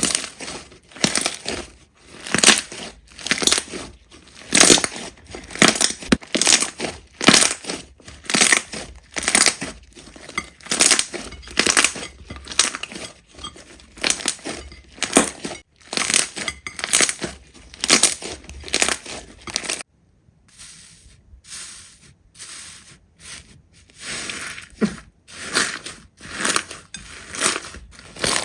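Slime being pressed and worked by hand, making short, noisy handling sounds that repeat one to two times a second, with a brief lull about two-thirds of the way through.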